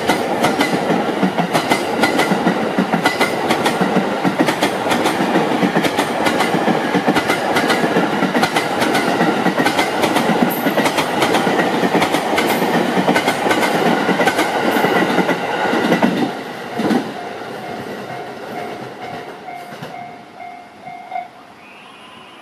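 Train of tank wagons rolling slowly away into a siding: steady clickety-clack of wheels over rail joints and points, fading about three-quarters of the way through. A thin, steady squeal follows for a few seconds as the train brakes to a stop.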